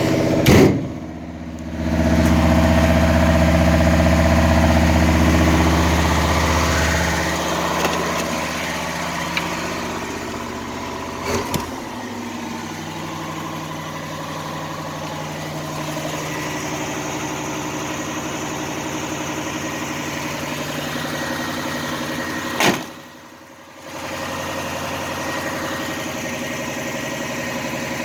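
1974 Suburban's V8 engine idling steadily, louder and deeper for the first several seconds. A few sharp knocks break in: one right at the start, one about eleven seconds in, and one a little before the end, followed by a second of muffled quiet.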